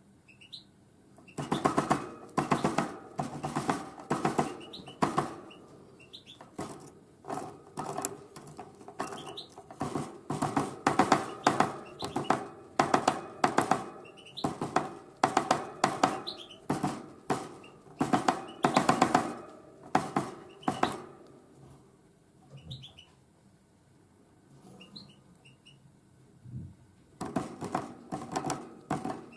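A tit hammering at sunflower seeds with its beak: rapid runs of sharp taps in bouts of about a second, with a quieter pause late on before the tapping starts again. A few faint high chirps come in the gaps.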